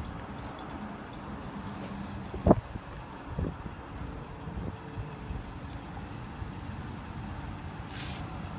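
Power side mirror folding: its small motor whirs briefly and stops with a clunk about two and a half seconds in, followed by a lighter knock, over a steady low rumble.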